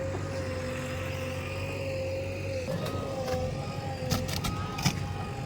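Heavy vehicle engine running steadily at a constant pitch with a steady high whine over it; two sharp clicks about four and five seconds in.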